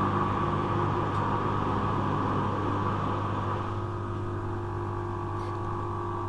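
Hoover washing machine running its first intermediate spin in a sudslock, the spin held back by too many suds in the drum. The motor's steady hum gradually gets a little quieter.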